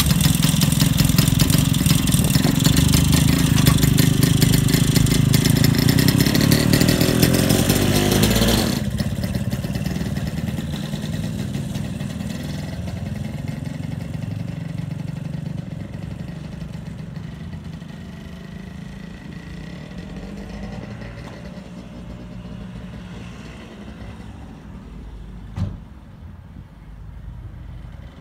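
New Hudson autocycle's small single-cylinder two-stroke engine running close by, then dropping sharply in level about nine seconds in and fading steadily as the machine is ridden off into the distance. A single sharp knock near the end.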